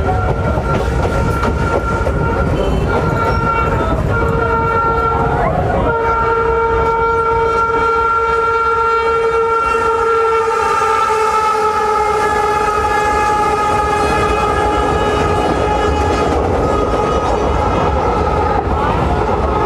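Electric multiple-unit local train running, with a steady rumble of the wheels and a long, steady whine of several tones. The whine breaks a few times at first, then holds and drifts slightly lower in pitch near the end.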